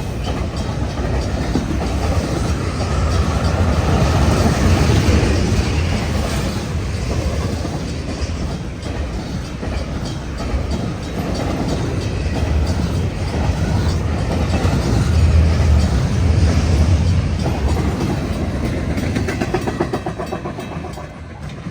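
Freight train cars rolling past the crossing: a steady rumble of wheels on rail, with repeated clicks as the wheels pass over the rail joints.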